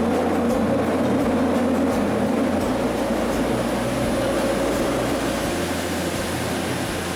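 Running noise inside a Fukuoka City Subway Nanakuma Line linear-motor subway car travelling between stations: a steady rumble and rush that eases slightly in level, joined about halfway by a faint high whine.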